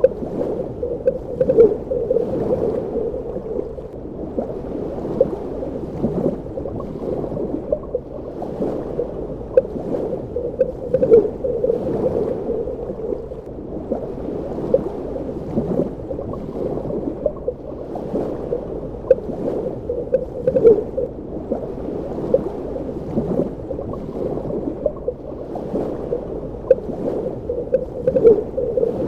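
Underwater ambience: a continuous muffled water rush, with frequent short bubbling pops and gurgles throughout.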